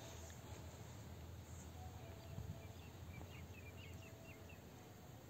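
Quiet open-air background with a low steady rumble, and a small bird giving a quick run of short, high chirps midway through.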